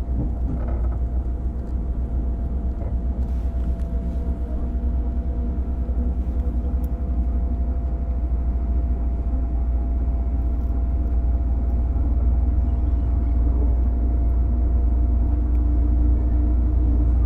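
Inside a JR 205-series electric commuter car (MoHa 205-384, with MT61 self-ventilated motors): a steady low rumble with a constant hum, growing slightly louder near the end.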